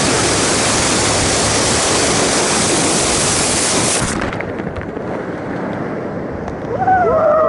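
Loud, steady rush of river water through rapids. About four seconds in it cuts off abruptly to a quieter, duller rush of water, with a voice near the end.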